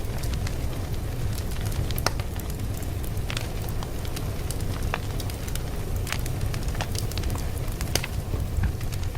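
Fire crackling: a steady low rumble with frequent sharp, irregular pops and snaps.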